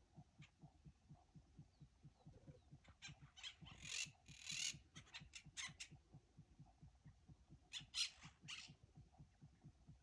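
Harsh, raspy bird calls in two spells, a run of short notes about three seconds in and a shorter one about eight seconds in, over a faint low fluttering of wind on the microphone.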